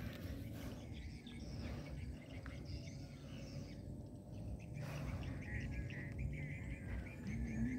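Birds chirping intermittently over a low, steady outdoor rumble.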